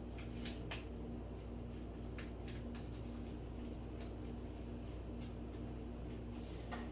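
Tea kettle heating up, not yet whistling: a steady low hum with a faint pulsing drone and scattered small ticks and clicks.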